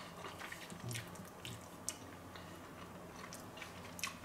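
A person chewing a mouthful of burger in a bread roll, faint, with scattered soft wet mouth clicks.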